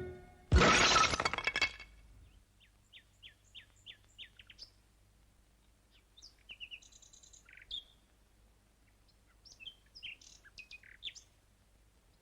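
A loud crashing burst about half a second in, lasting about a second, then small songbirds chirping: short, scattered high chirps and calls.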